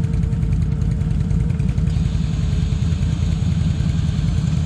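ATV (quad bike) engine running steadily, with no rise or fall in revs.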